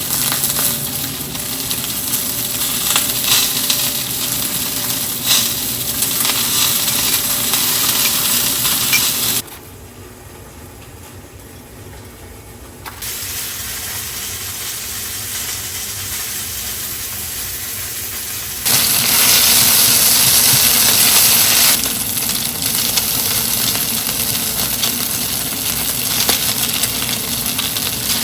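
Food sizzling in a hot frying pan, with a few small clicks. The sizzle drops to a much quieter level for a few seconds near the middle, and a brighter, louder sizzle follows for a few seconds after that.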